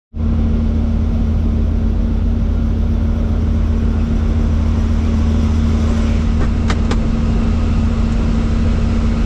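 Helicopter running: a steady drone of engine and rotor noise with a constant low hum and a steady higher tone. A few faint clicks come about two-thirds of the way through.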